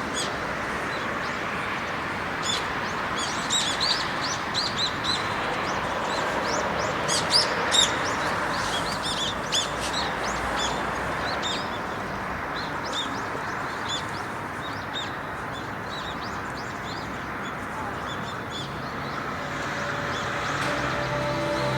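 Small birds chirping: many short, high calls in quick clusters, thinning out after the middle, over a steady hiss.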